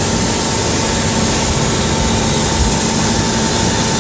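Saen Saep canal passenger boat's engine running loud and steady under way, with water rushing past the hull and a thin steady high whine above the rumble.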